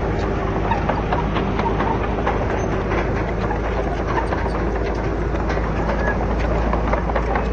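Heavy diesel construction machine running steadily with a low engine drone, over a dense, irregular clatter of metallic clicks and knocks.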